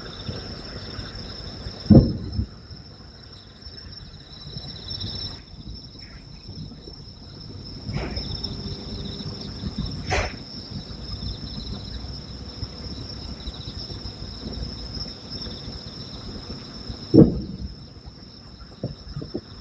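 Aerial firework shells bursting in the distance: two loud booms with a rumbling tail, about two seconds in and near the end, and fainter bangs in between. Steady high-pitched chirring of night insects runs underneath.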